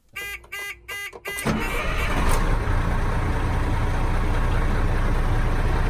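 Four short electronic warning beeps from the Dennis Sabre fire engine's cab, then its diesel engine starts about a second and a half in and settles into a steady idle.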